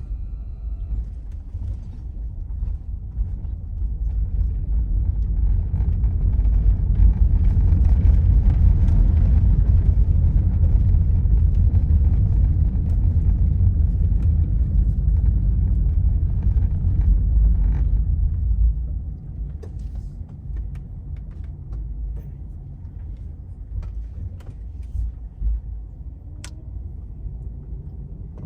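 A car driving on the road: a steady low rumble of road and engine noise. It grows louder for a long middle stretch, then drops off sharply about nineteen seconds in.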